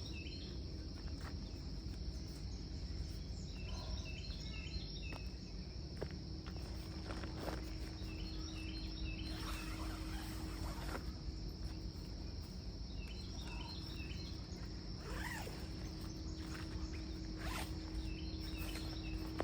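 Outdoor nature ambience: a steady high insect drone, with brief bursts of short chirping calls about every five seconds and a few soft rustles.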